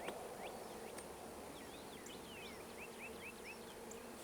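Honeybees buzzing in a steady, faint hum around an open hive, with small birds chirping in quick short calls over it and a light click at the start.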